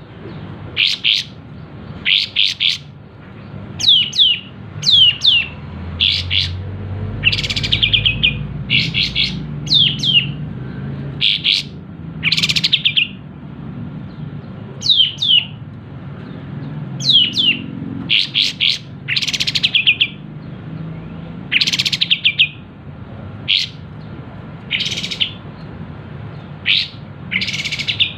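Sooty-headed bulbul calling over and over in short, sharp phrases, many of them quick falling notes, often in twos and threes with brief gaps between.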